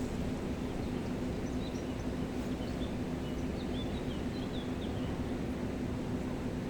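Mountain river water rushing steadily, with a steady low hum beneath it. A small bird gives a string of short, high chirps from about a second and a half in until about five seconds in.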